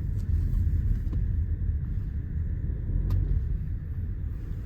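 Car engine and road noise heard from inside the cabin as the car drives: a steady low rumble, with a couple of faint ticks about a second in and about three seconds in.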